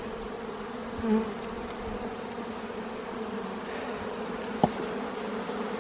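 Honey bees buzzing around an opened hive: a steady, dense hum. A single sharp knock sounds near the end.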